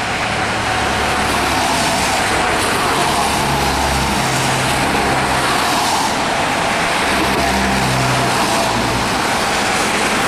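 Steady road traffic noise: motor vehicles running with a low engine hum under an even rush of tyre and wind noise.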